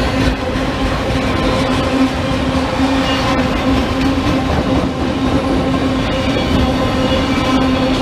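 A train rolling past, a loud steady rumble of wheels on rail with a steady droning tone under it.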